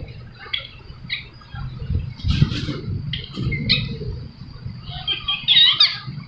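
Ringneck parrot giving short, repeated chirping calls, with a dense run of quick gliding calls and squawks near the end.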